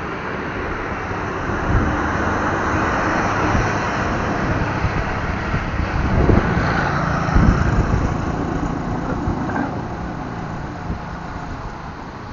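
Strong wind rushing and buffeting the microphone in irregular gusts, over steady street traffic noise; a passing vehicle's engine hum rises about six seconds in and fades by about nine seconds.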